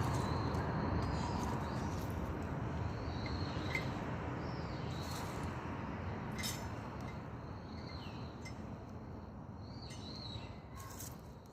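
Dry perilla branches burning in a Solo Stove wood stove: a steady low rush of flame that slowly fades, with a few sharp crackles. Birds chirp in the background.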